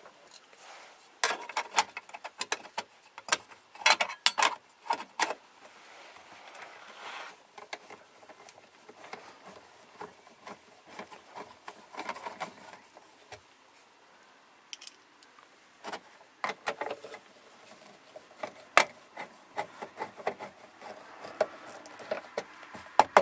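Scattered clicks, taps and rattles of a small plastic cover being handled and fitted over the rooftop air conditioner's wire-nutted wiring connections, in clusters with quieter handling between.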